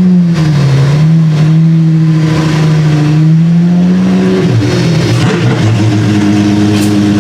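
Apollo Intensa Emozione's 6.3-litre naturally aspirated V12 running at part throttle. Its note holds fairly steady, dips about four and a half seconds in, then climbs back and holds a higher pitch near the end.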